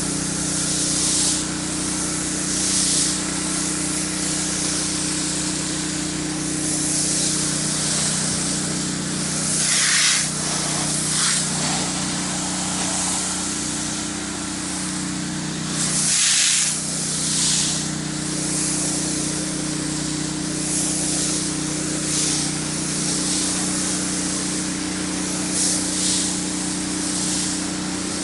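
Gas pressure washer engine running steadily while its wand sprays water onto concrete, the hiss of the spray swelling and easing as it sweeps, strongest twice, about ten and sixteen seconds in.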